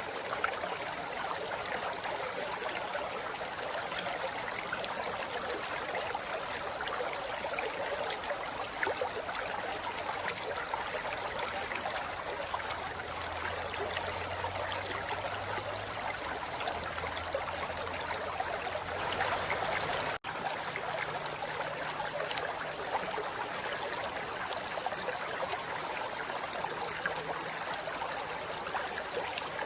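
Forest river flowing over rocks: a steady rushing of water, with one momentary dropout about two-thirds of the way through.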